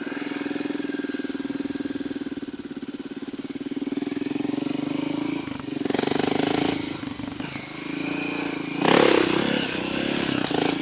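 Dirt bike engine running steadily, then revving up in louder surges about six and nine seconds in as the bike pulls away and accelerates.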